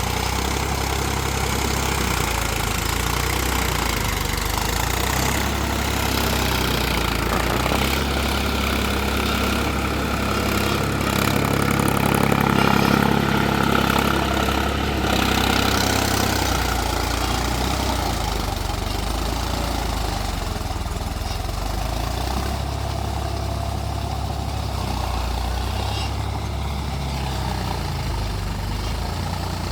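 Mahindra 275 DI TU tractor's three-cylinder diesel engine running steadily. About halfway through it gets louder and higher in pitch for a few seconds, then settles back.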